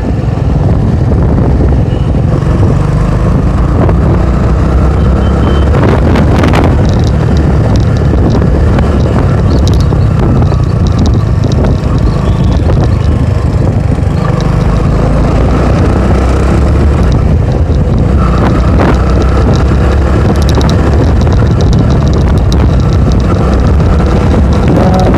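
Motorcycle ride heard from the rider's own microphone: steady, loud wind buffeting and road and engine noise, with faint sounds of passing traffic.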